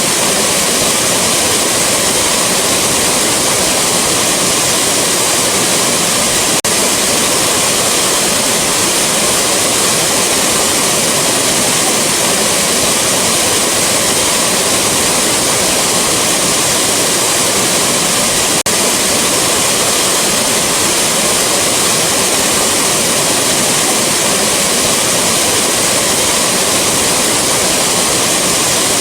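Rushing waterfall: a loud, steady roar of falling water. The roar dips with a faint tick twice, about twelve seconds apart, where the looped recording joins.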